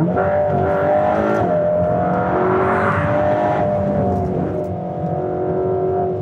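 Mercedes-AMG GT's twin-turbo V8 running hard through a corner at speed, its pitch holding fairly steady with a slight dip about five seconds in.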